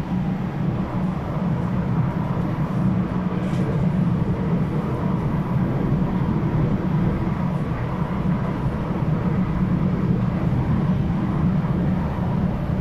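SMRT C751B train running at speed, heard from inside the carriage: a steady wheel-on-rail running noise with a faint steady whine.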